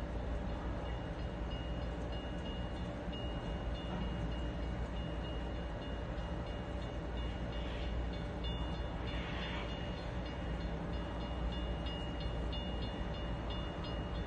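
Steady low rumble of a diesel freight train running out of sight, with a faint steady high tone above it.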